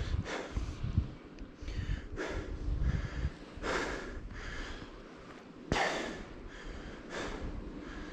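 Skier's forceful snorting breaths, one about every second, over a low rumble of wind on the microphone.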